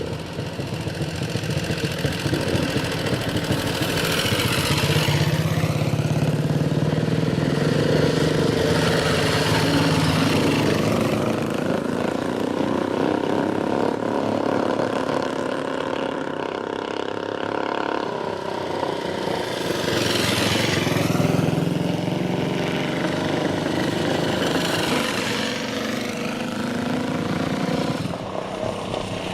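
Engines of old motorcycles running continuously, with bikes passing close by about five seconds in and again around twenty seconds in.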